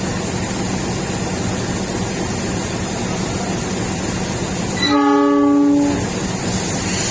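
Train horn sounding one held blast of a little over a second, over the steady rumble of a train running through the station.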